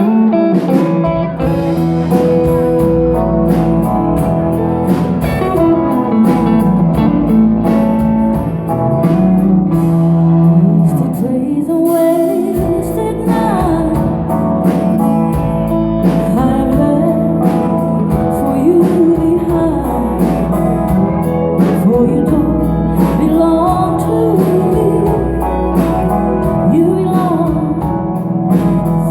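Live band playing country music, guitar-led, with bass and a steady drum beat.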